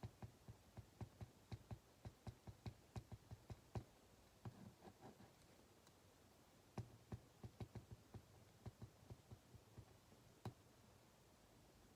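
Faint, irregular ticking and tapping of a ballpoint pen writing on paper at a desk, in two runs of quick clicks with a short softer scratch between them. A faint low hum runs underneath.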